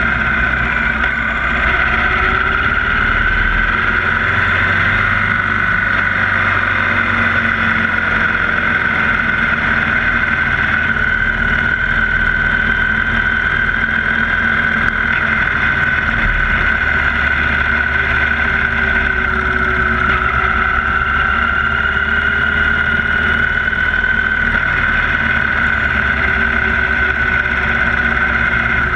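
2016 Victory Cross Country 8 Ball's V-twin engine running steadily under way on a winding road, its pitch drifting slowly up and down through the curves.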